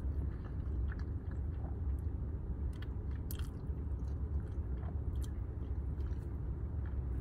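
Close-up chewing and mouth sounds of someone eating creamy linguine pasta, with a few faint clicks, over a steady low hum.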